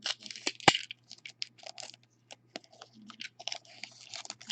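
Foil wrapper of a trading card pack being torn open and handled: a quick run of irregular crackles and rustles.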